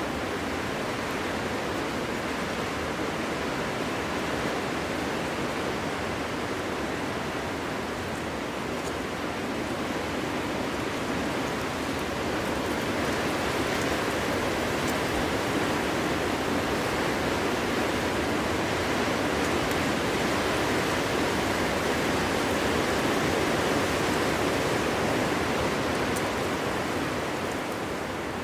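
Steady wind rushing as a dense, even noise with no howling tone, swelling gradually through the middle and easing slightly near the end.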